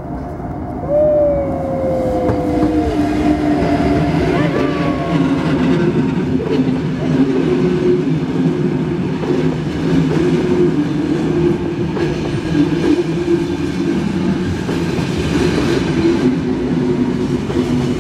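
NSB El 18 electric locomotive and its passenger carriages rolling past close by: a steady rumble with wheel clatter on the rails, getting louder about a second in. A short squeal glides down in pitch about a second in, with a briefer one a few seconds later.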